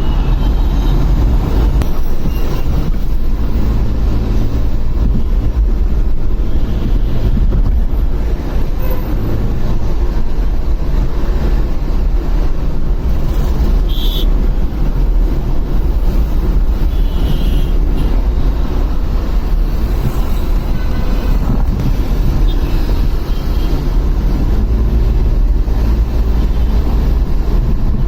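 Motorcycle on the move: steady deep wind rumble on the microphone over the engine's running, with short high-pitched sounds about halfway through.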